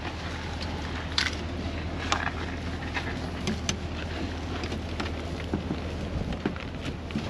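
A truck engine running steadily under wind noise, with scattered sharp ticks, the strongest about a second and two seconds in.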